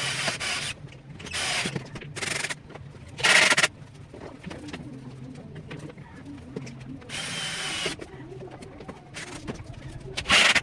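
A power tool run in short bursts, about six times, the loudest about three seconds in and right at the end. Pigeons coo in the background.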